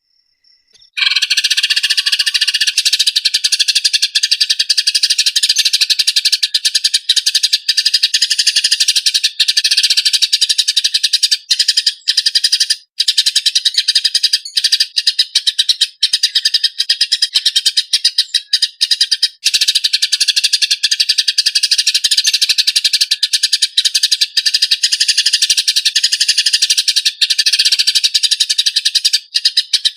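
Eurasian tree sparrows giving their harsh, rapid fighting chatter: a dense, unbroken stream of fast chirps. It starts about a second in after a short silence.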